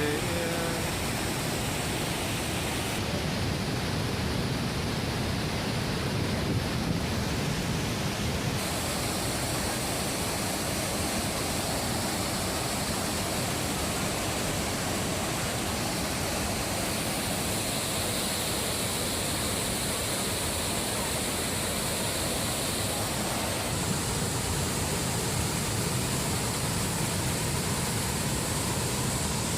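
Waterfall: water pouring and rushing in a steady, unbroken noise.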